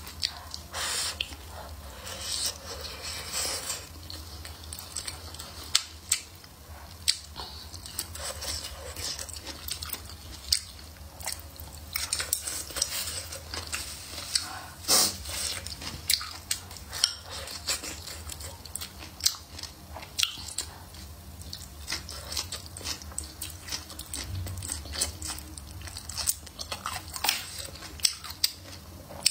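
Close-miked chewing and biting, with wet mouth sounds, as rice, stir-fried pork slices and blistered green peppers are eaten. Irregular sharp clicks come from wooden chopsticks tapping the ceramic bowl.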